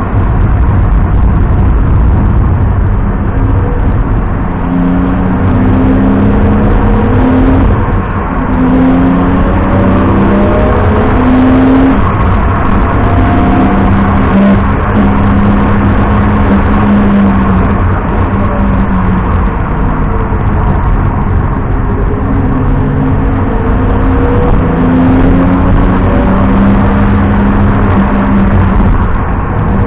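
BMW 330i E90's inline-six engine pulling hard through the gears, its pitch climbing and dropping back at each shift several times. Under it runs a steady heavy rumble of road and wind noise.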